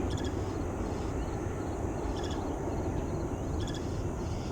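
Steady low rumble of distant jet airliner engines at an airport, with three brief faint high chirps over it.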